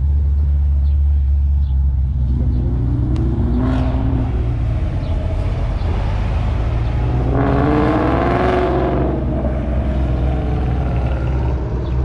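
Cars accelerating away under a steady low engine rumble: one car's revs rise about two to four seconds in, and a second, louder car accelerates past around eight seconds in.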